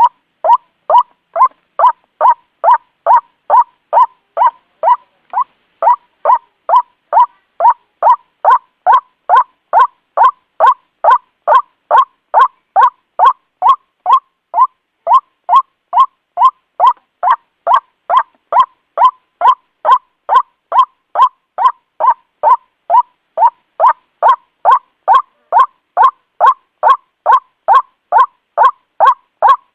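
White-breasted waterhen giving its repeated 'ruak-ruak' call: short, loud notes at a steady rate of about two a second.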